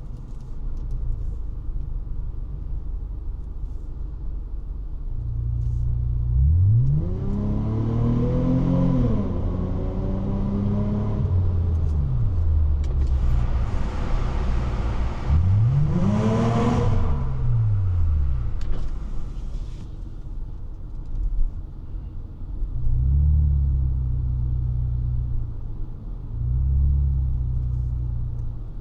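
1999 Honda Legend's 3.5-litre V6 exhaust under way: a steady low rumble, then the engine pitch climbs hard and falls back twice, about 7 and 15 seconds in. Two shorter, steadier pulls follow near the end.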